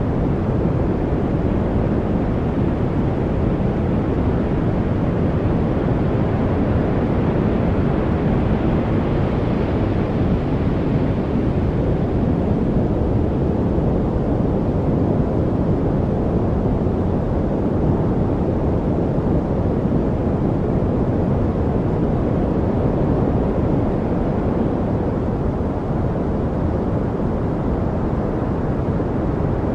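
A steady, unchanging noise with most of its weight in the low range: a deep, even rush. For a few seconds about a third of the way in it grows slightly brighter.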